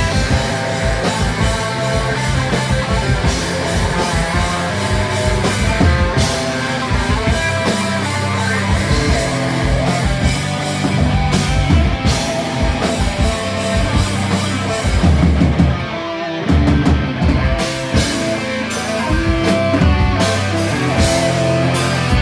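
Live metal band playing an instrumental passage on electric guitars, bass and drum kit, with a brief break about sixteen seconds in before the band comes back in.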